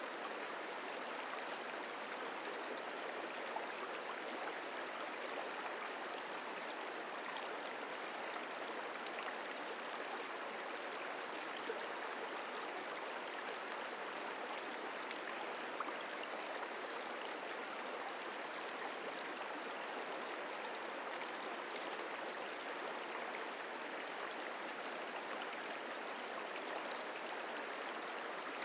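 The Merced River flowing over rocks: a steady, even rush of running water with small scattered splashes.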